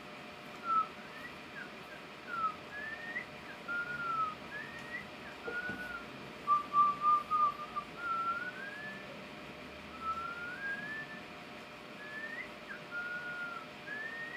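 A string of clear whistled notes, many sliding up or down, with a quick run of four short repeated notes near the middle, over a faint steady hiss.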